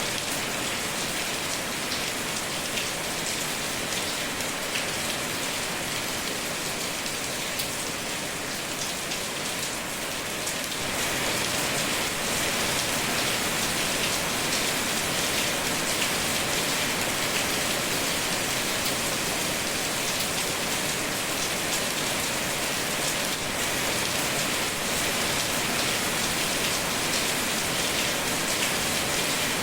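Steady rain falling: an even hiss full of small drop ticks, picking up slightly about a third of the way through.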